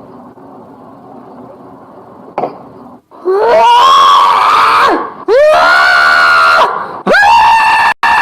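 A cat yowling loudly: three long, drawn-out cries of about a second and a half each, starting about three seconds in, their pitch sliding up and down. Before them, a faint steady hum and a single click.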